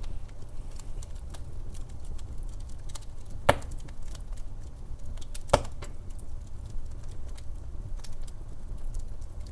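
Wood fire burning in a fireplace, a low steady rumble with light scattered crackling and two sharp pops about three and a half and five and a half seconds in.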